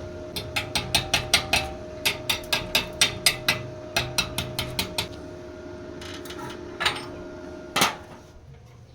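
Repeated sharp taps on metal, about four a second in two runs, then two single hits, over a steady machine hum that stops near the end.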